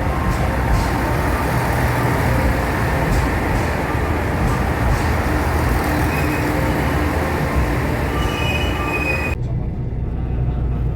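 Steady rumbling noise of a moving vehicle, with a few short high squeals around the middle. The high hiss drops away abruptly about nine seconds in, leaving the low rumble.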